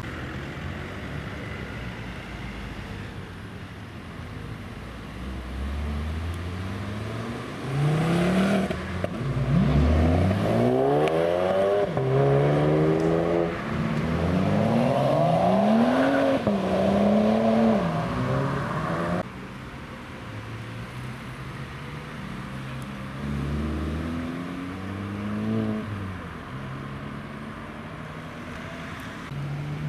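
Modified car engines accelerating away, each rev rising in pitch and then dropping at the gear changes. The loudest run of revs comes in the first half and cuts off suddenly, and a second, quieter car accelerates later.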